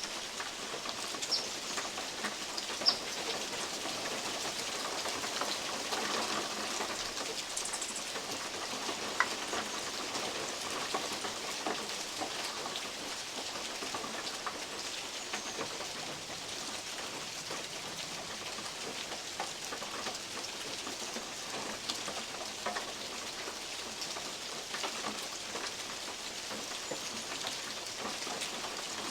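Steady rain falling through oak trees, with big drops from the leaves tapping irregularly on a metal roof. A few louder single drops stand out, about 1, 3 and 9 seconds in.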